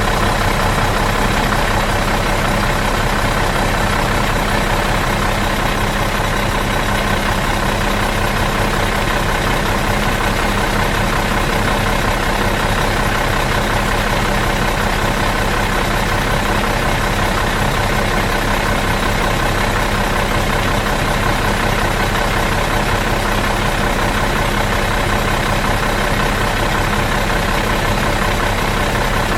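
Bus engine idling out of gear, a steady unchanging hum.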